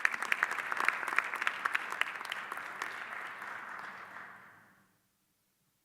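Audience applauding, with sharp individual claps at first; the applause dies away about four to five seconds in.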